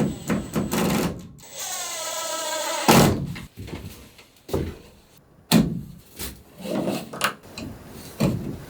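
A power drill runs for about a second and a half, with a knock just before and several sharp wooden knocks and clatters after it, typical of building work with hand and power tools.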